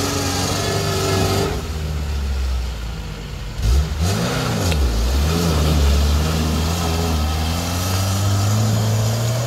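Lada Niva engine labouring through deep mud. About a third of the way in there is a sudden loud jolt and the engine revs sharply up and back down, then it holds a steady, fairly high note that climbs a little near the end.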